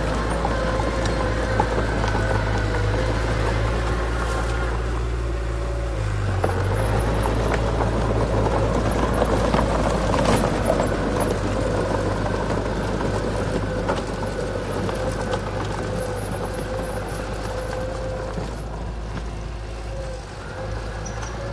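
Diesel engine of heavy earthmoving machinery running steadily, with a strong low rumble and a louder, grittier stretch about halfway through.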